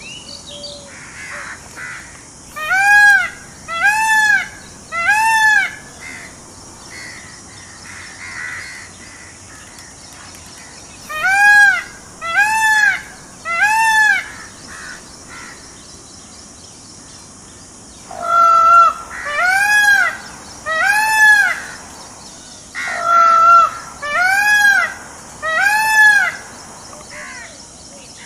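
Indian peafowl (peacock) calling: four series of three loud wailing calls, each rising then falling in pitch and lasting about a second, with pauses of several seconds between series.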